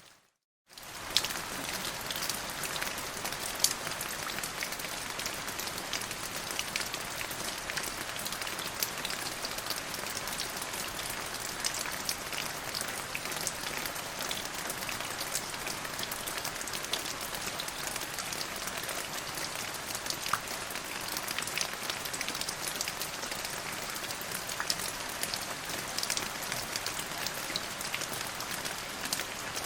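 Steady rain falling, an even hiss dotted with many separate drop ticks. It drops out to silence for about half a second right at the start, then resumes at the same level.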